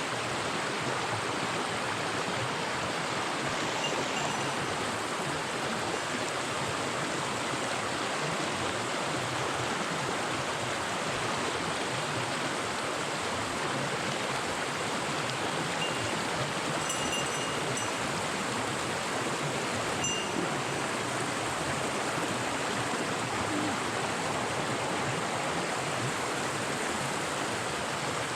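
Mountain stream water running steadily, an even rushing hiss with no break.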